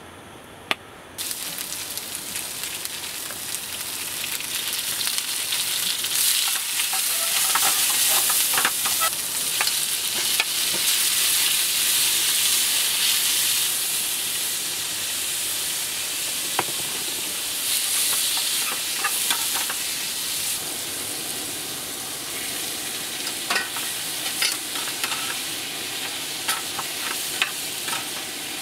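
Food sizzling in hot oil in a frying pan on a portable gas stove. The sizzle starts suddenly about a second in as the food goes into the oil, then swells and ebbs while it is stirred, with a metal spatula clicking against the pan several times near the end.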